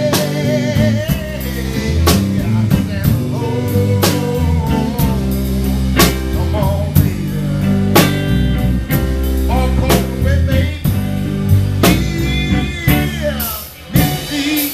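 Live trio music: guitar melody with bent notes over a bass line and a drum kit, with sharp accents about every two seconds. The sound drops away briefly near the end.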